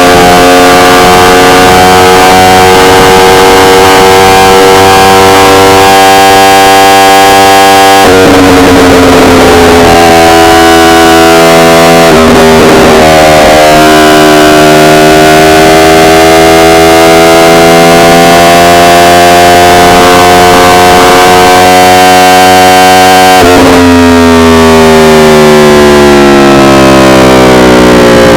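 Yamaha R1 inline-four engine pulling on the road, its pitch climbing slowly, dropping sharply about eight seconds in, then climbing again before falling away steadily near the end as the revs come down. The recording is very loud and distorted.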